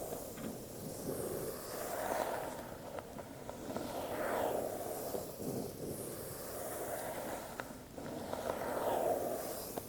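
Lid of an Apple product box being slid off and back on over and over: a soft rushing of air as the snug lid moves, rising and fading about every two seconds, with a few faint taps of cardboard.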